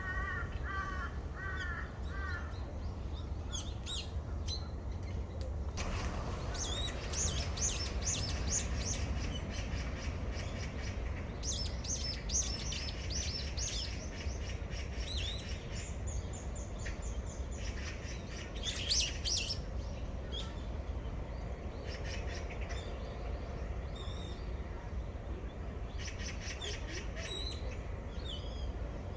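Crows cawing a few times in quick succession near the start, then small songbirds chirping and twittering on and off, over a steady low rumble.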